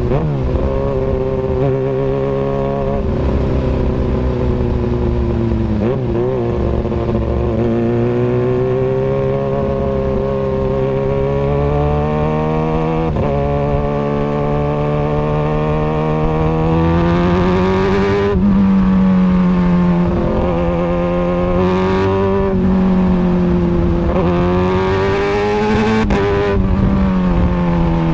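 Kawasaki Ninja ZX-636 inline-four running through an Austin Racing exhaust. Its note climbs slowly in pitch and then drops suddenly, three times.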